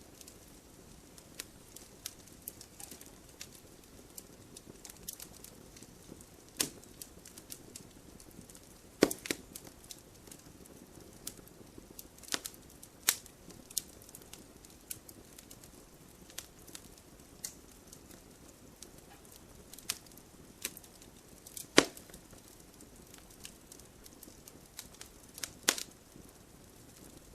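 Wood fire in a wood-burning stove crackling: a low steady hiss with irregular sharp pops and snaps, a few of them much louder than the rest.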